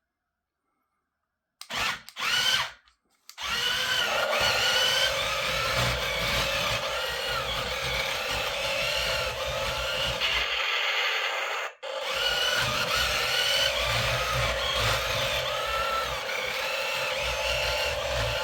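Toy RC battle tank's electronic sound module playing through its small speaker, with the whir of its small electric motors: two short warbling sounds, then a continuous buzzing engine sound with warbling tones over a low rumble. The rumble drops out briefly about two thirds of the way in, with a sharp click.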